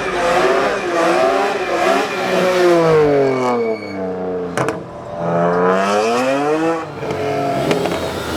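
Car engine revving, its pitch climbing and falling several times, easing off about halfway through, then rising again. A single sharp click comes about four and a half seconds in.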